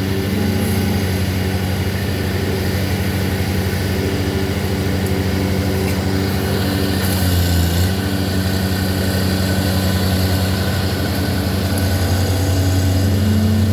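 A large engine of a tree crew's machinery running steadily at a constant speed. Its note dips slightly and swells briefly about halfway through.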